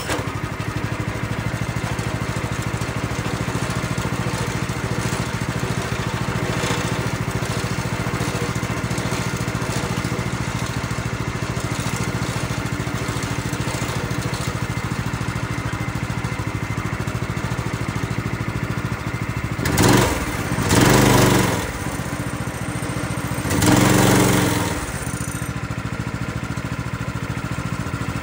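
Predator 212 single-cylinder go-kart engine idling steadily and smoothly, its carburettor freshly cleaned. About twenty seconds in, the throttle is opened three times in short revs that rise and fall back to idle.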